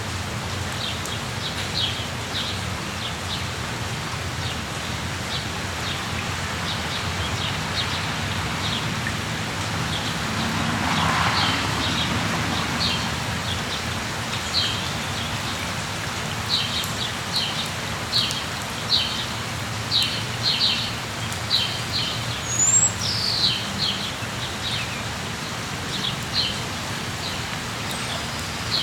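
Steady rain with small birds chirping over it: short, high chirps repeated in quick series, coming thickest in the second half, with one whistled note that slides up and back down a little past the middle.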